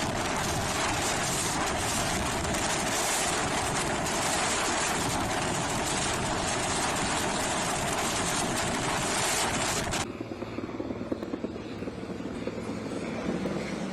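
Boeing 747 jet blast: a loud, steady roaring rush of engine exhaust at takeoff thrust with a steady hum. It cuts off abruptly about ten seconds in, and a quieter, rougher engine sound follows.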